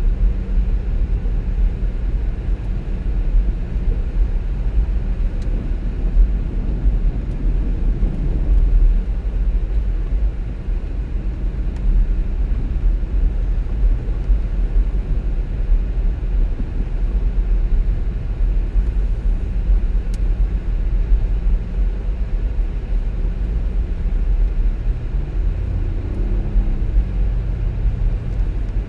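Car driving along a road: a steady low engine and tyre rumble, with the engine note briefly rising and falling near the end.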